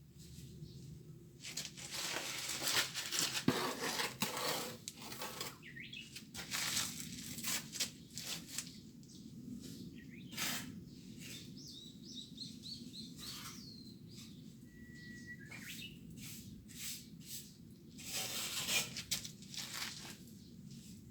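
Irregular rough scraping strokes, like a plastering trowel working cement mortar over a patched door opening. A small bird chirps in a quick series about halfway through, then gives one short whistle.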